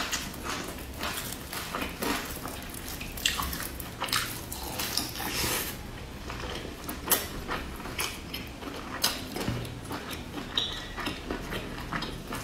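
Close-up eating sounds of biting and chewing a pan-fried stuffed pancake: irregular mouth clicks and smacks, several a second.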